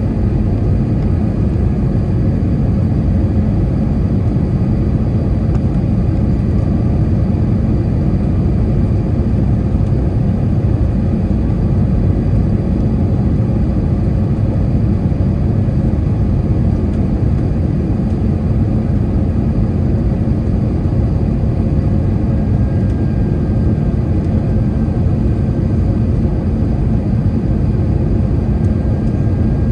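Steady low rumble of engine and air noise inside the passenger cabin of an Airbus A321 airliner.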